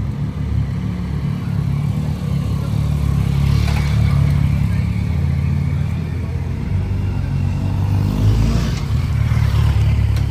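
Yamaha R1M's crossplane inline-four through a full Akrapovic exhaust, running, with its sound swelling twice.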